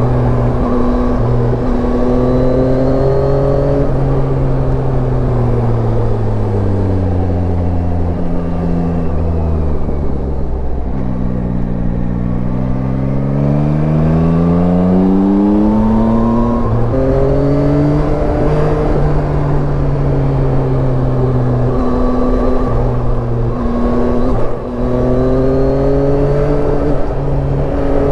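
Yamaha Tracer 9's inline three-cylinder engine running under way: its pitch holds, sinks as the rider eases off, then climbs steadily as the bike accelerates, and settles again with a couple of brief breaks like gear changes. A low rushing noise runs beneath.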